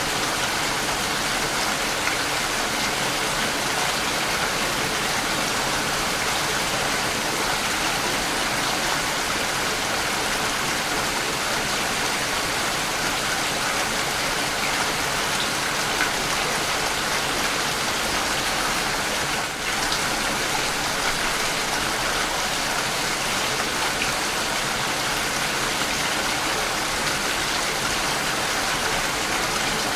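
Steady rain falling on the outside of a house, a dense, even hiss of drops, with a brief dip in loudness about two-thirds of the way through.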